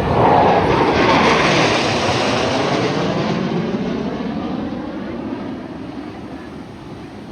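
Blue Angels F/A-18 Super Hornet jet noise from a passing flyby, loudest about a second in and then fading steadily as the jet moves away.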